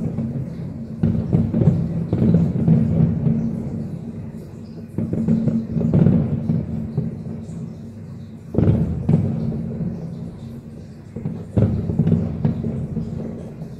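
Aerial firework shells bursting in rapid volleys, heard from afar as deep booms and rolling rumble, with a fresh volley every few seconds.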